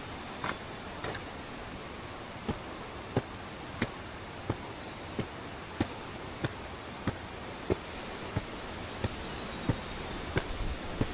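Footsteps on a path, a sharp step about every two-thirds of a second in an even walking rhythm, over a steady rushing hiss.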